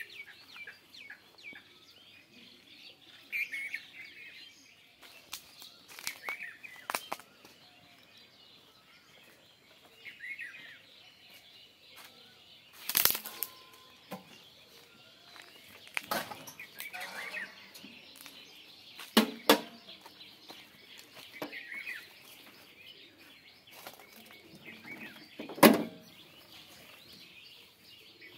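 Birds chirping and calling on and off, with a few sharp knocks and clatters scattered through, the loudest about halfway in and near the end.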